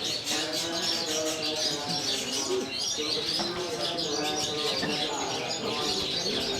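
Several long-tailed shrikes (cendet) singing at once in rapid, dense chattering phrases, high-pitched and continuous, with lower cooing or murmuring underneath.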